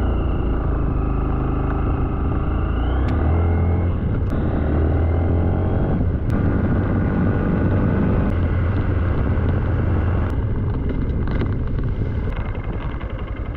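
Motorcycle engine pulling away and accelerating through the gears. The engine note rises and briefly drops at shifts about three, four and six seconds in, then runs steadily.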